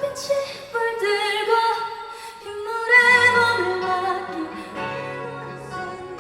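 A female singer sings a slow, sustained melodic line with vibrato over quiet instrumental accompaniment in a live concert recording. A low bass note enters about halfway through.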